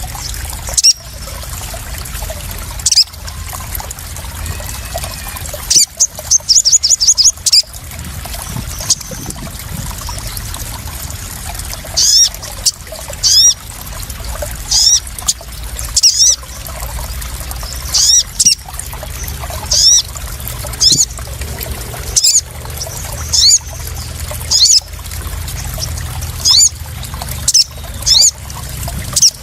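Sharp, high call notes of a sogon sunbird, each falling in pitch, repeated about once a second, with a quick run of notes about six seconds in. Under them, water splashes and trickles steadily.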